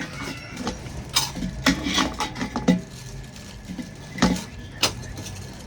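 Handling noise: about half a dozen sharp clicks and knocks of small objects being moved or set down, the loudest a little after one second and around four seconds in.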